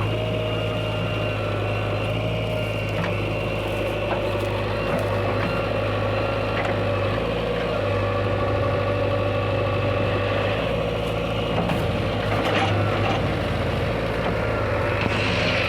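Heavy diesel engine running steadily with a deep hum, with a few short knocks about three-quarters of the way through.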